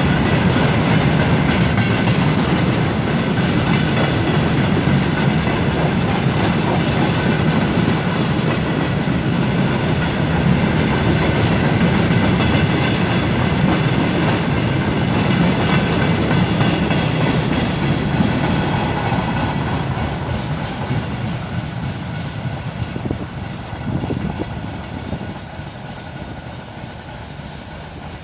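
Freight train hauled by a ChME3 diesel shunter, its wagons rolling on the rails with wheels clattering over the rail joints. The sound is loud and steady, then fades over the last ten seconds or so.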